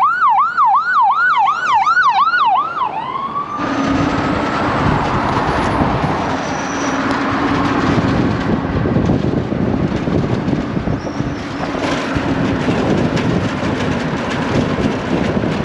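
Emergency-vehicle siren in a fast yelp, rising and falling about three times a second for under three seconds, then gliding up once and fading. A steady rushing noise with a low hum follows, through to the end.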